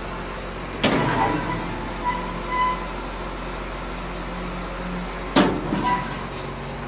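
Engine of a piece of farm machinery running steadily, with two loud metallic clanks about four and a half seconds apart, each followed by brief squeaky ringing.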